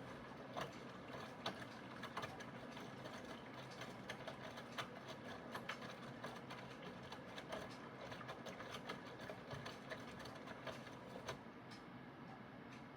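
Aidoo 1 kg mini washing machine running quietly mid-wash with its high-pressure water pump off: a low steady hum with irregular light clicks and ticks.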